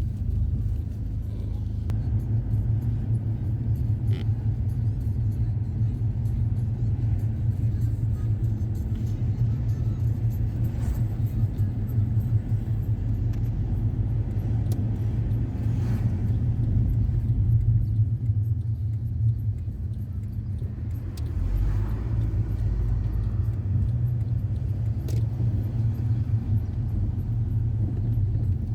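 Inside a moving car's cabin: a steady low rumble of engine and road noise while driving.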